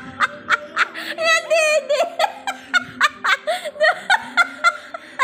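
A person laughing in a quick string of short snickers, about three or four a second, with a brief high-pitched giggle about a second in.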